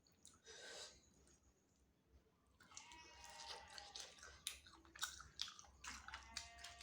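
A person chewing chicken wings close to the microphone, with wet smacking and clicking mouth sounds. It is quiet at first, and the chewing starts about two and a half seconds in.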